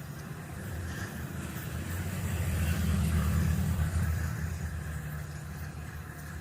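A motor vehicle's engine running, growing louder to a peak about three seconds in and then fading again.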